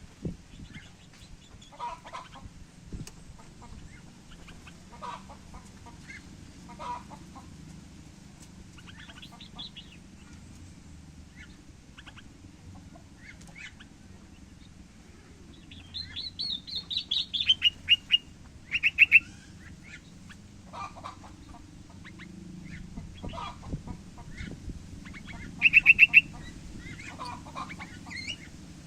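Several small birds calling: scattered short chirps, then a little past halfway a loud chattering series of rapid notes that falls in pitch, followed by two short, fast trills. A steady low hum runs underneath.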